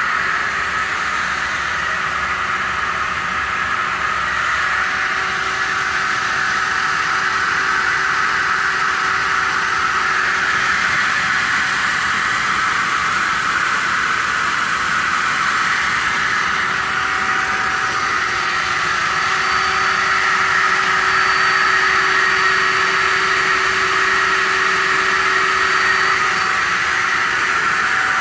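Aluminium-profile circular saw machine running steadily, its blade motor giving a continuous whirring noise with a few steady tones over it.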